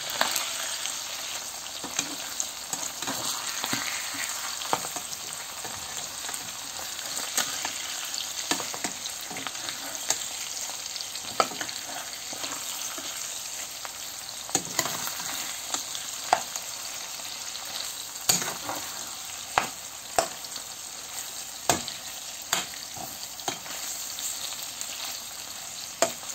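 Shrimp, small fish and vegetables sizzling steadily in hot oil in a non-stick pan, stirred with a metal spatula that scrapes and taps the pan now and then, more often in the second half.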